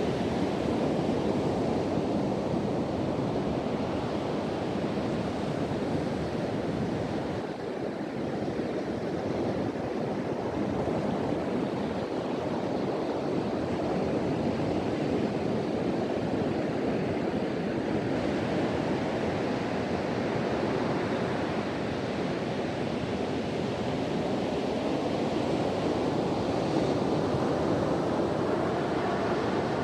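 Sea surf washing continuously onto a beach, the roar swelling and easing slowly, with wind blowing across the microphone.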